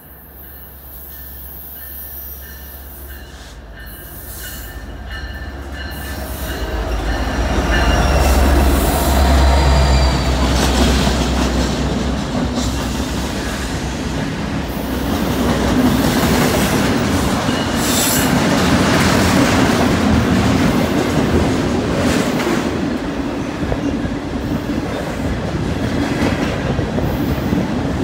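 A freight train led by a Norfolk Southern SD70ACE and a Union Pacific SD70M diesel locomotive approaches and passes. The locomotives' low rumble grows and peaks about eight to ten seconds in. Then the freight cars roll by with steady wheel clatter and squealing.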